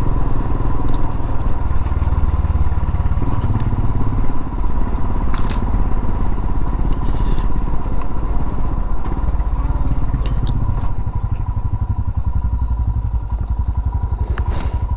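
Royal Enfield Himalayan's single-cylinder engine running as the motorcycle rides along, its exhaust beat turning more distinctly pulsing in the last few seconds.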